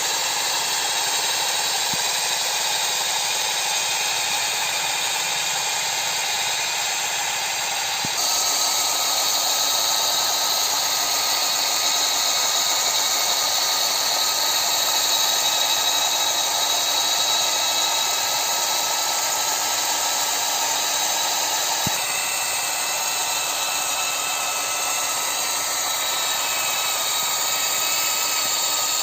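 Homemade scale-model Kubota DC-93 combine harvester, its small motors running steadily as it cuts and threshes rice. The sound shifts abruptly about eight seconds in and again about twenty-two seconds in.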